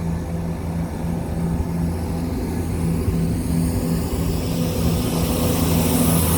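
A train's engine running with a steady low hum, growing louder towards the end as a rising hiss joins it.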